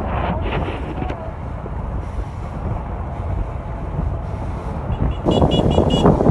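Wind buffeting the microphone as a steady low rumble. About five seconds in it grows louder, with a quick run of about five short high pips.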